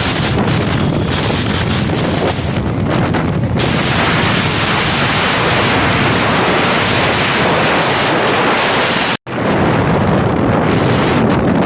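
Loud, steady rushing of wind buffeting the microphone, with a rumble underneath, as when filming from something moving fast. The sound cuts out completely for an instant about nine seconds in.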